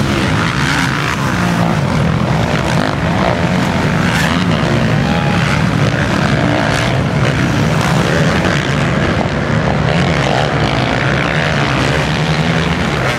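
Several motocross dirt bikes running at high revs on the track. Their engines make a loud, continuous drone with no breaks.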